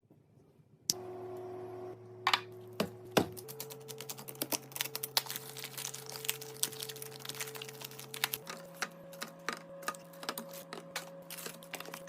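Many quick, light clicks and clatters of containers and items being handled and set down while organizing a fridge. Underneath is a steady low held tone that shifts pitch twice.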